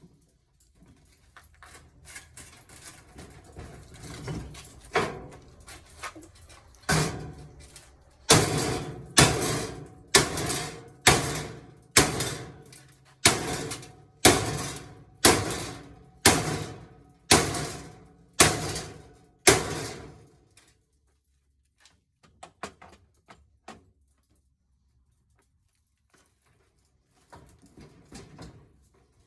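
About a dozen loud hammer blows on metal, roughly one a second, each ringing briefly, struck while the motor is being knocked free of a scrapped washing machine. Softer knocks and scrapes come before them, and a few light taps near the end.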